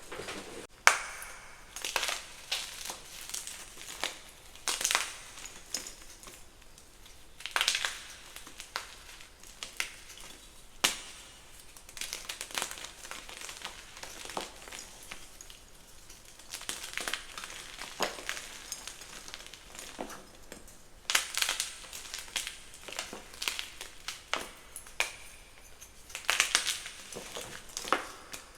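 Blocks of gym chalk being crushed by hand, crunching and crumbling with sharp cracks at irregular intervals, one especially loud crack about a second in.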